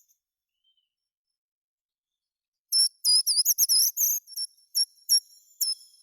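Songbird singing: a fast, high-pitched phrase of repeated notes and swooping whistles that starts about three seconds in after near silence, ending in a few held whistled notes.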